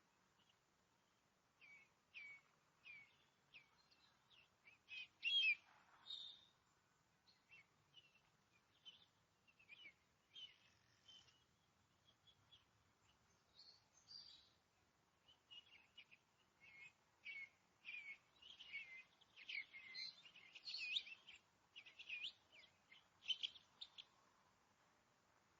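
Faint forest birds chirping and singing: many short, high calls and trills from several birds, sparse at first and busier in the second half.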